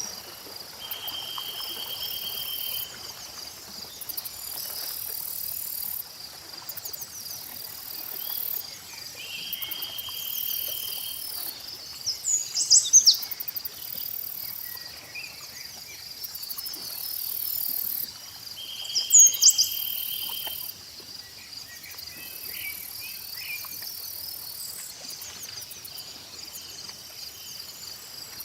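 Insects and crickets trilling steadily in a high pulsing chorus, with a short buzzing call repeating about every eight seconds. Bird calls sound twice, about halfway through and again some six seconds later, the loudest sounds.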